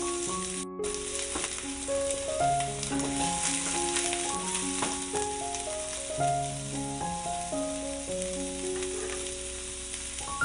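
Chopped onion and garlic sizzling in a stainless steel pan, with a wooden spatula scraping now and then as it stirs them. A melody of held notes plays over it.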